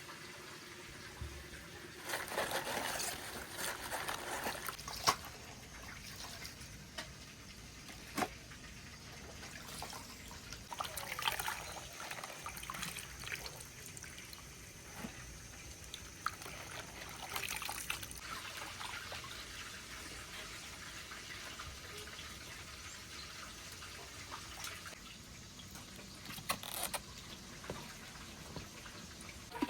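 Water trickling and pouring, louder three times, with a few short clicks and knocks.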